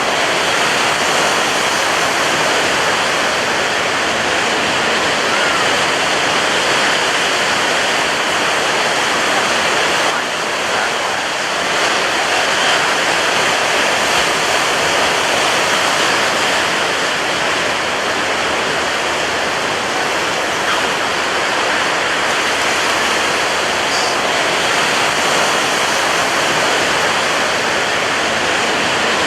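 Ocean waves breaking on a beach: a dense, steady rush of surf, with a brief slight lull about ten seconds in.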